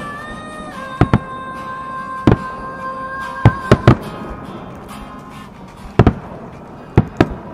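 Aerial firework shells bursting overhead: about ten sharp bangs, some in quick pairs and triples. Music plays underneath, holding a long note that ends about four seconds in.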